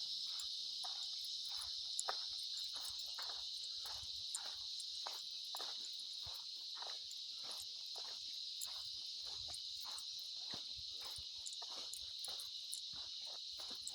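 Steady high-pitched chorus of cicadas, with footsteps at a walking pace underneath.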